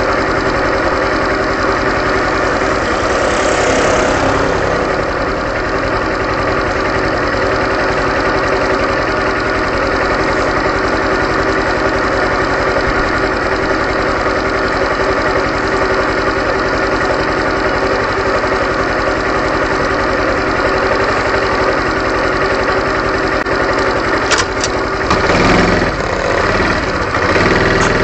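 Honda Super Cub 110's small single-cylinder four-stroke engine running steadily, with a few sharp clicks and a change in its sound near the end.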